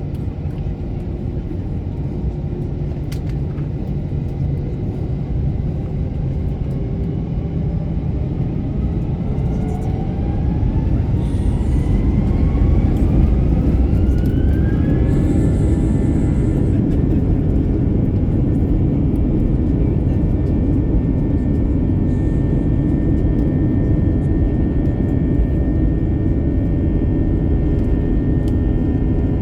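Airliner jet engines heard from inside the cabin, spooling up to takeoff thrust: a rising whine over a low rumble, growing louder about ten to twelve seconds in, then settling into a steady loud roar.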